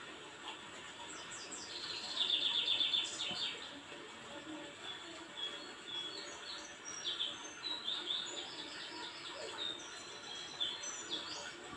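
Small birds chirping. There is a rapid, high trill about two seconds in, the loudest part, then scattered short, high chirps and trills.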